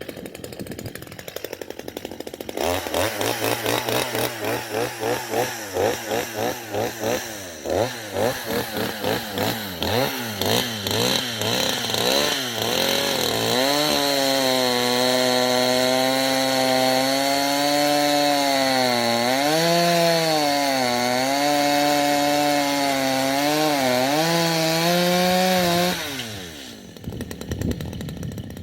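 Two-stroke chainsaw starting at idle, then revving up and down rapidly before being held at high revs in a long cut through oak logs, its pitch dipping a few times as the chain loads in the wood. It drops back to idle near the end.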